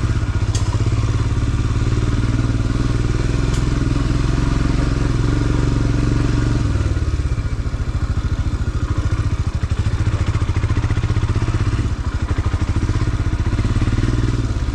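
Royal Enfield Scram 411's single-cylinder engine running at low, fairly steady revs, with two sharp ticks in the first few seconds.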